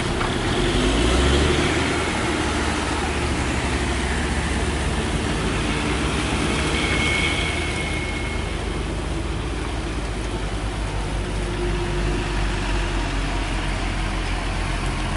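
Heavy diesel engine running steadily, a continuous low rumble under an even outdoor noise.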